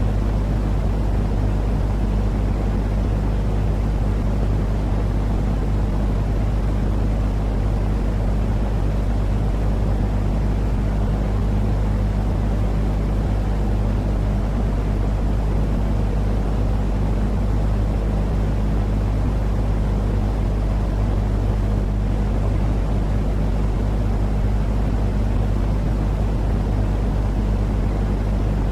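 Continuous low rumbling noise with a steady deep hum underneath, unchanging in level: a calming sleep-noise track.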